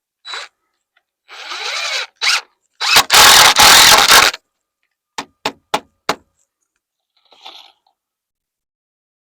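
Power drill driving a screw into framing lumber in short runs, the longest and loudest about three seconds in, followed by four sharp knocks on the wood.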